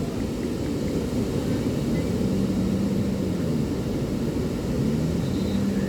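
Steady low rumble of ocean surf and wind at a beach. A faint pitched hum wavers up and down from about two seconds in.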